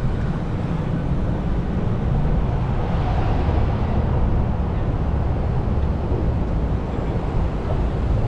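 Steady low rumble of wind on the microphone of a moving bicycle, with street traffic passing; a brief swell about three seconds in.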